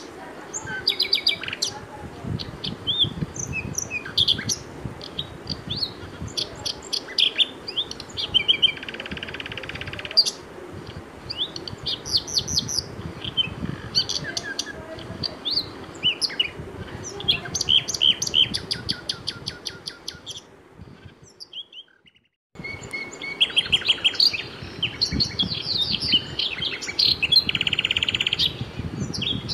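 Birds chirping and singing, many quick high chirps and short trills overlapping. The sound drops out for a moment about three-quarters of the way through, then the chirping resumes.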